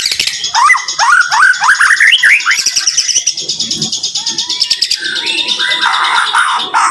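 White-rumped shama (murai batu) singing a dense, rapid-fire song. About half a second in comes a quick series of rising whistled notes, over fast high chattering and clicking, and a harsh rasping phrase near the end.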